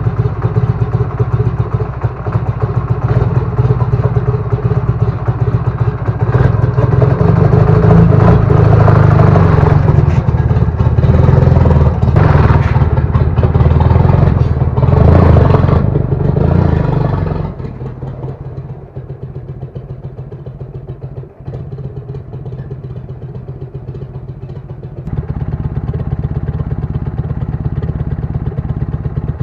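Ural motorcycle's IMZ 8.103.10 750 cc flat-twin engine running just after a cold start in frost, revved in surges for the first half, then settling to a quieter idle about 17 seconds in and picking up a little about 25 seconds in.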